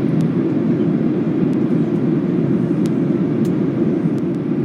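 Steady cabin noise inside a Boeing 737-800 during descent: an even rush of airflow and CFM56-7B engine noise heard from a window seat, with no change in pitch or level.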